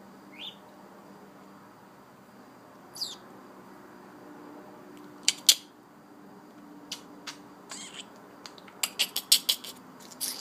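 Pet bird giving two short, high, falling chirps, then a series of sharp clicks, two loud ones midway and a quick run of them near the end.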